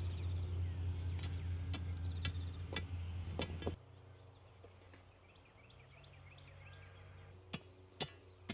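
A steady low machine hum cuts off abruptly about four seconds in. After a quieter stretch with faint high chirps, sharp separate knocks start near the end, about two a second.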